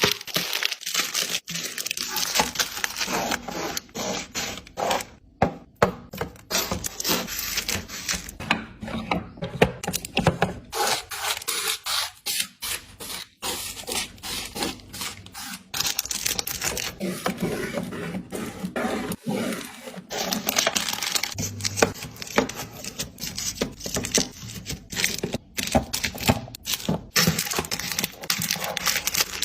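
Busy handling of small items: a dense run of clicks, taps and rustles as things are picked up, set down and moved about, typical of restocking an organizer.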